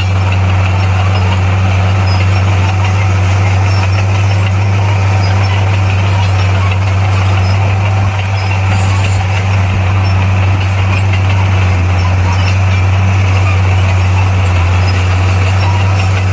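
Heavy earthmoving machine's diesel engine running steadily at a constant pitch, with a strong deep drone.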